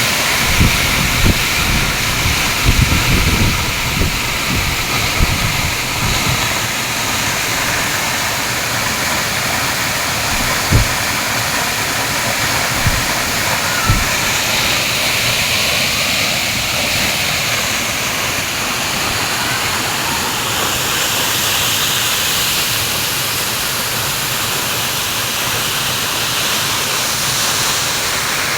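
Waterfall: a steady, loud rush of falling water. A few brief low thumps stand out in the first half.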